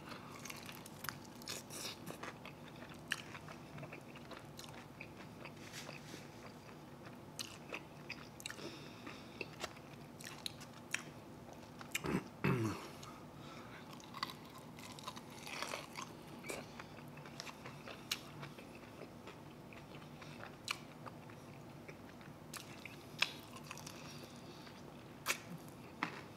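Close-up chewing and biting of chicken wings, with scattered wet mouth smacks and crunches as the meat is stripped from the bone.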